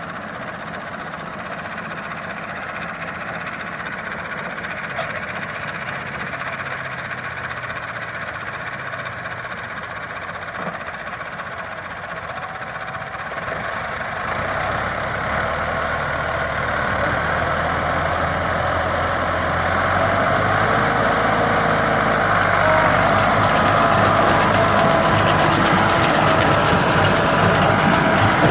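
Massey Ferguson 385 tractor's diesel engine running steadily, growing louder from about halfway through.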